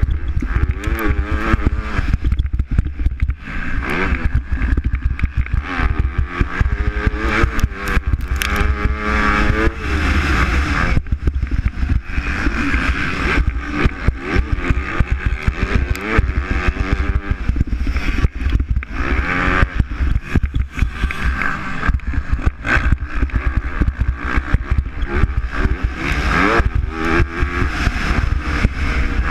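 MX2-class motocross bikes racing, several engines revving up and dropping back over and over through gear changes and jumps.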